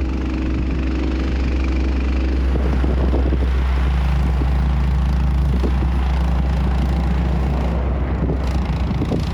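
A motor vehicle's engine running steadily under a heavy low rumble, its note dropping a few seconds in.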